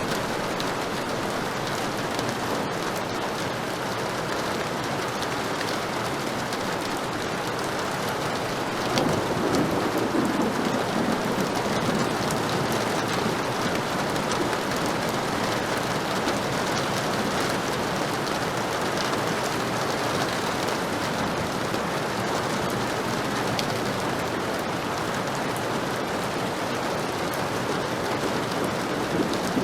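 Heavy rain falling steadily, with a low rumble of thunder about nine seconds in that swells and fades over a few seconds.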